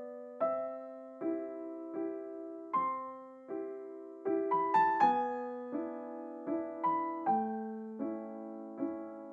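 Background piano music: a slow, gentle melody of single struck notes and chords, each decaying, with a brief quicker run of notes about halfway through.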